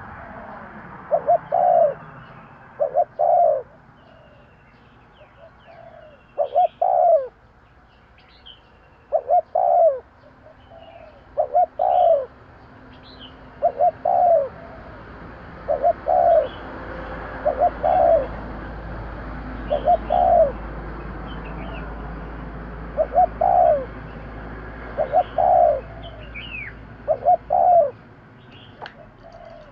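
Spotted dove cooing: the same short phrase of a few low notes, repeated about every two seconds. Small birds chirp faintly in the background.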